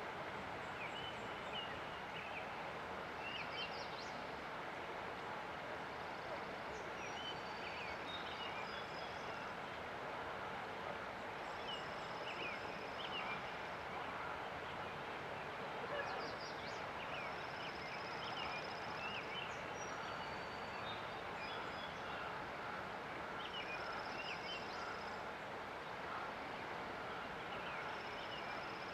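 Songbirds chirping over the steady rush of a river: scattered short chirps throughout, and a high, thin trill about a second and a half long that repeats every five or six seconds.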